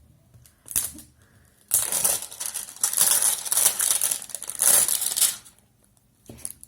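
Plastic toy packaging crinkling as it is handled, with a short rustle about a second in, then a long run of dense crinkling for several seconds and a few small clicks near the end.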